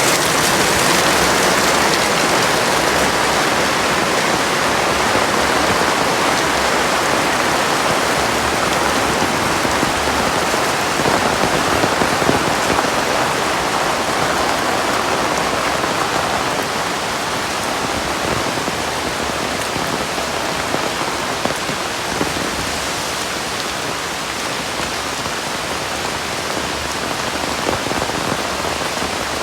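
Heavy rain falling steadily, a dense even hiss of drops hitting surfaces, easing a little in the second half.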